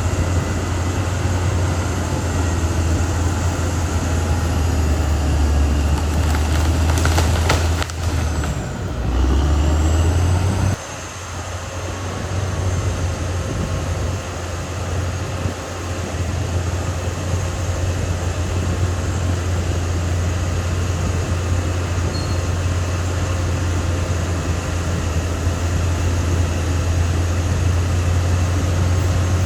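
Caterpillar D6R XL bulldozer's diesel engine running steadily with a deep low hum. Its note shifts about seven to ten seconds in, with a few clanks, then the level drops sharply near eleven seconds and settles back into a steady run.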